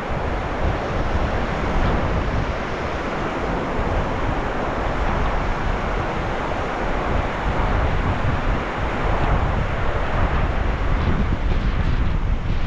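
Sea waves washing in as a steady rush of surf, with wind rumbling on the microphone.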